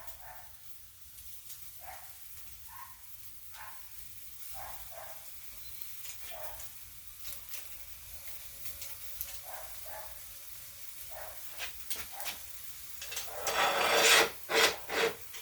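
Quail sizzling faintly over a charcoal grill, with scattered small squeaks. About thirteen seconds in comes a run of three or four loud rasping, clattering strokes as the grill is closed down because the charcoal fire is too hot.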